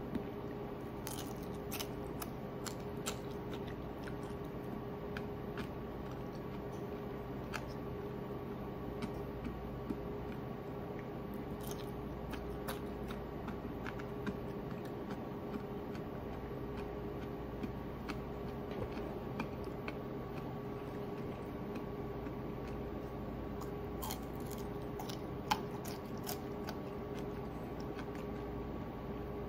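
Scattered small crunches and crackles of deep-fried ponyfish being broken apart by hand and chewed, with one sharper snap near the end. A steady background hum runs underneath.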